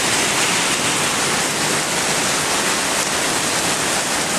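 Heavy rain pouring down, a steady loud hiss with no separate impacts standing out.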